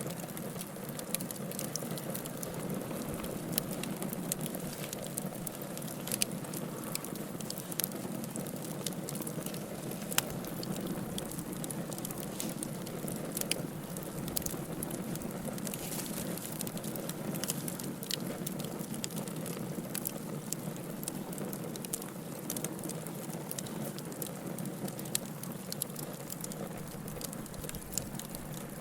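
Wood fire burning in a fireplace: a steady low rush of flames with frequent small crackles and an occasional sharper pop.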